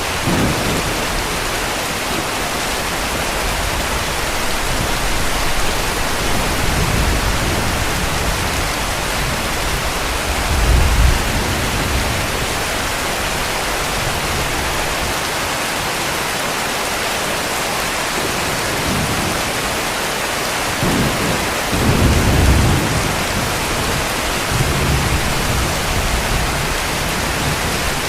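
Heavy rain falling in a steady hiss, with low rumbles of distant thunder rising under it, the strongest about ten seconds in and again a little past twenty seconds.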